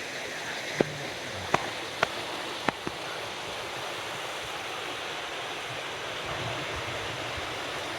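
Steady rushing noise of water, with five sharp clicks spread over the first three seconds.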